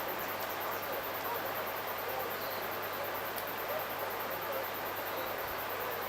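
Steady, even rushing background noise of the bush, with a few faint, short bird calls and a single click about three and a half seconds in.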